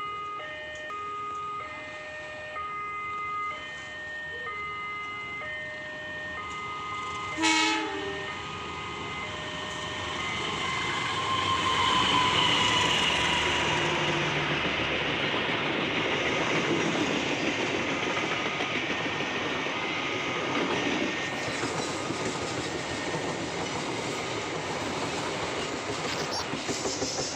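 Railway level-crossing warning alarm sounding a repeating pattern of alternating electronic tones; about seven seconds in a train horn sounds briefly, then a train passes with a steady rumble and wheel clatter over the rails.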